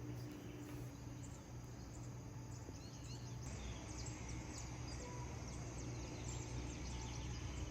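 Faint small-bird chirping, many short high chirps from about three and a half seconds in, over a steady low hum.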